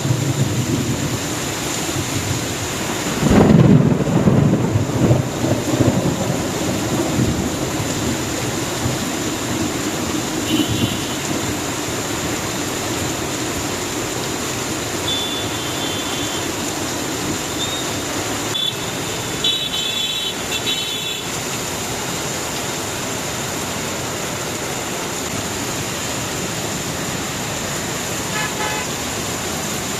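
Heavy rain falling steadily on a city street, with traffic passing through it. A low rumble swells about three seconds in, and short high-pitched vehicle horn toots sound several times in the middle and once near the end.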